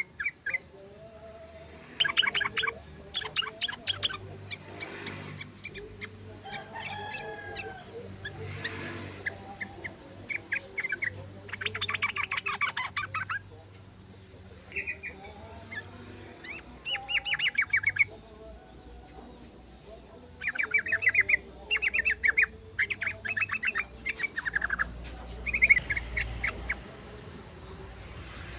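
Yellow-vented bulbul (trucukan) singing: short bursts of rapid, chattering notes, repeated every second or two with brief pauses between phrases.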